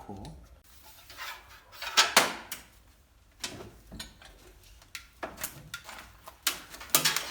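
Firewood being handled: a series of irregular wooden knocks and clunks, the loudest pair about two seconds in and a cluster near the end.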